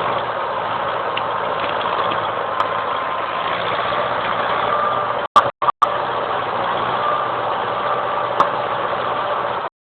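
Chainsaw engine running at a steady high speed through a cut, with no revving up or down. The sound drops out twice with clicks about five and a half seconds in and cuts off abruptly just before the end.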